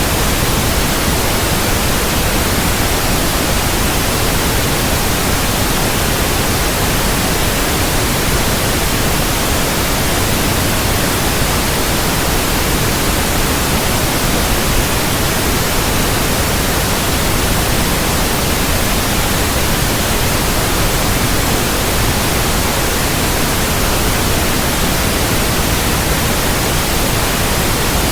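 Steady, unchanging white noise spread evenly from low to high pitches, a continuous hiss with no breaks or variation, of the kind played as a sleep aid for infants.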